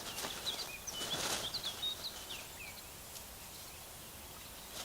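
Small birds chirping, a quick run of short high chirps in the first couple of seconds, with two brief rustles among them, then faint forest background.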